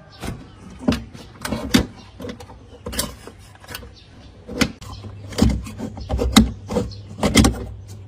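Irregular knocks and clatter of parts being handled, about a dozen sharp strokes unevenly spaced. A low steady hum joins about five seconds in.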